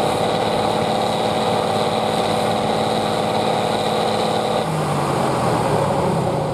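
Competition truck engine running at steady high revs, then dropping to lower revs about four and a half seconds in.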